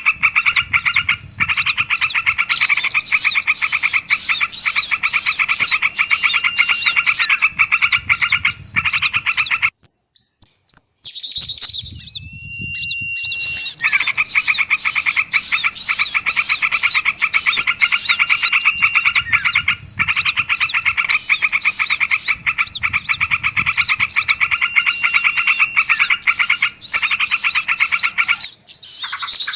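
Bird-lure recording of small songbirds chattering in a dense, fast stream of repeated rising chirps. The chatter breaks off briefly about ten seconds in, where a single held whistle note sounds, then resumes.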